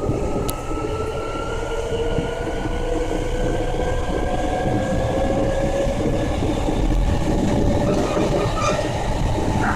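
Hankyu Kyoto Line electric train heard from inside the car: a steady rumble of wheels on rails, with the traction motors' whine rising slowly in pitch as the train gathers speed.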